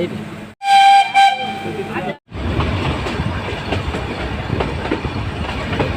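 A Nilgiri Mountain Railway meter-gauge train sounds one short, loud, single-pitched blast of its horn. After a brief break, the train runs on the rails with a steady low rumble and many small rail clicks.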